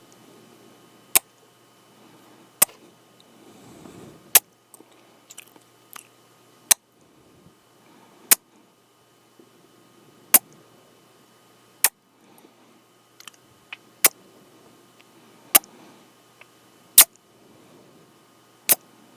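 Close-up kissing sounds into the microphone: a series of about a dozen sharp lip smacks, roughly one every one and a half seconds, with faint breathing between them.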